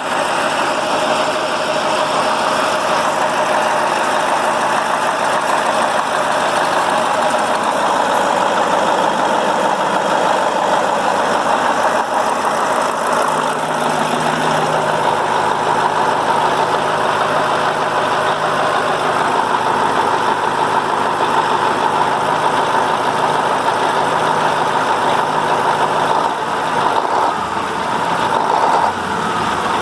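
KAMAZ 740.51-320 V8 turbodiesel engine running steadily at idle, its level dipping briefly near the end.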